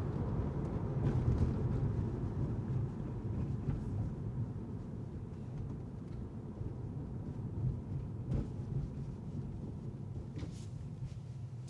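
Car driving on city streets: a steady low rumble of tyres and engine that slowly gets quieter, with a couple of faint ticks in the second half.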